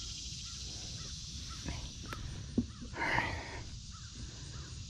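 One harsh bird call, like a crow's caw, about three seconds in, over a steady high insect buzz.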